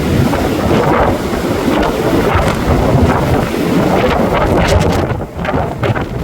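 Blizzard wind buffeting the microphone: a loud, rumbling rush of noise that surges and eases in gusts.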